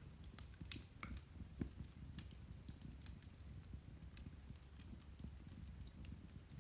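Irish turf (peat) fire burning with a low rumble and faint, scattered crackles and pops, the loudest pop about a second and a half in.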